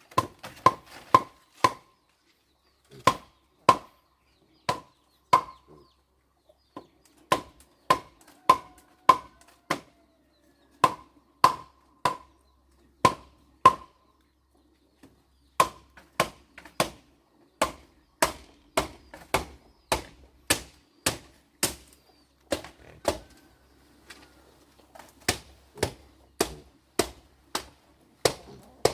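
Repeated sharp chopping strikes of a tool on wood, each with a brief ring. They come in irregular runs of about one to two a second, with short pauses between runs.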